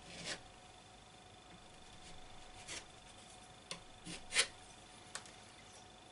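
Filler knife spreading and scraping plaster filler into a hole in a wall: about six short scrapes, the loudest a little over four seconds in.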